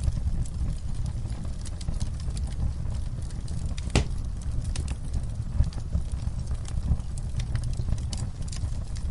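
Wood fire crackling: a steady low rumble of burning with scattered sharp pops and snaps, and one loud crack about four seconds in.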